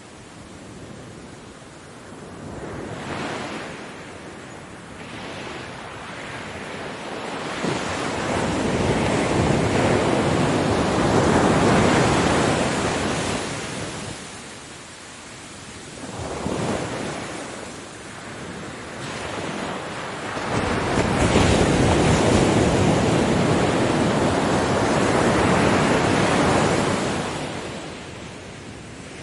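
Ocean waves breaking on a beach, the surf swelling and fading as each wave comes in, with two long, loud surges in the middle and end of the stretch and smaller ones between. Wind on the microphone runs underneath.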